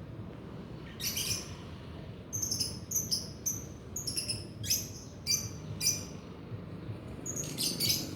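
Lovebirds chirping in short, high-pitched bursts: one call about a second in, a run of chirps from about two to six seconds, and more near the end.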